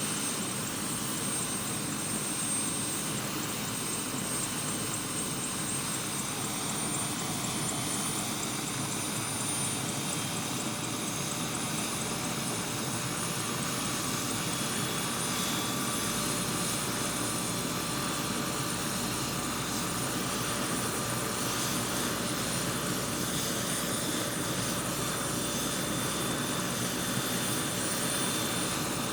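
Helicopter running steadily: continuous rotor and engine noise with a thin high whine on top, getting a little louder past the halfway point.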